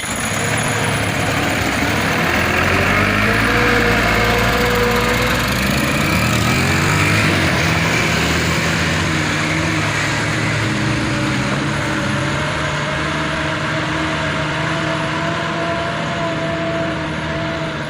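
Truck engine pulling uphill under load. Its note rises and shifts as it goes by, loudest a few seconds in, then settles into a steadier, slightly quieter run.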